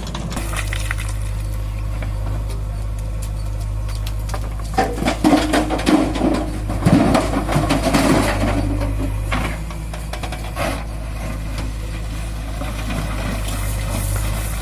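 John Deere 5045 D tractor's three-cylinder diesel engine running with a steady low drone. For a few seconds in the middle, a louder stretch of knocking and clattering rises over it.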